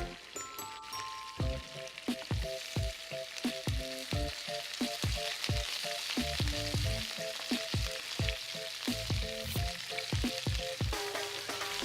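Food sizzling as it fries in a pan, a steady hiss throughout, over background music with a regular beat.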